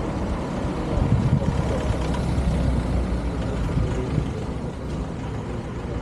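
Steady motor-vehicle engine and road noise with a heavy low rumble.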